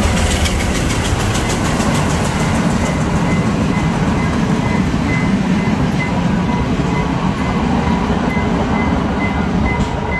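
Passenger train passing close by: a steady low rumble with the clatter of wheels on the rails, heaviest in the first couple of seconds. A faint high beep repeats about twice a second underneath.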